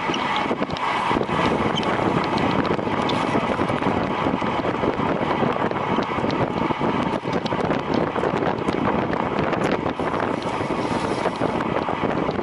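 Steady wind rushing over the microphone of a racing cyclist's camera, with many short clicks and ticks mixed in.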